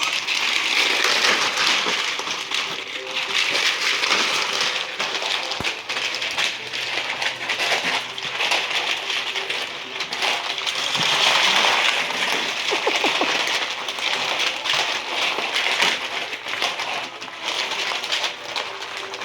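Pine pellet bedding rattling and crunching as French bulldog puppies scramble and dig in it: a continuous gritty rattle of many small clicks that swells and eases.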